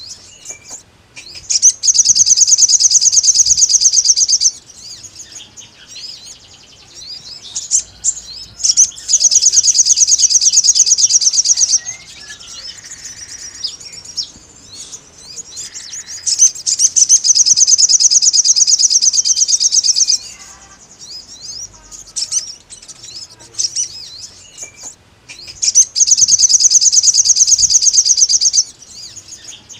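A sogon songbird singing four long, loud, very rapid high trills of about three to four seconds each, with softer scattered chirps between them. It is a challenge song, calling out to a rival bird.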